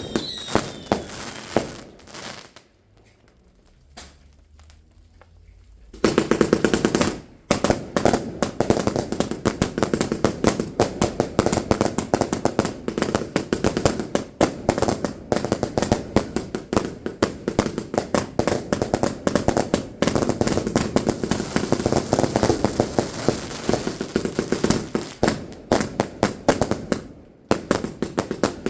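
Fireworks going off: a few bangs, a lull of about three seconds, then a long, rapid, continuous volley of sharp bangs and crackles, many a second, like a firecracker string or barrage cake, with a brief break near the end.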